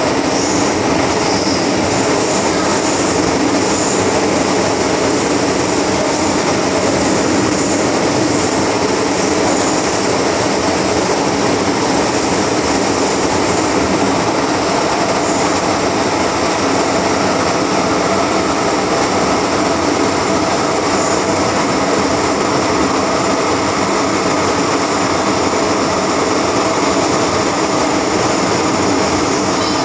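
MTR M-Train electric multiple unit running steadily at speed, heard from on board: a continuous loud rumble of wheels on track, with faint high steady tones in the first half.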